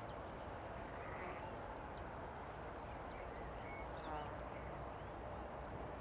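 Small birds chirping in short, repeated high notes over a steady low outdoor background noise.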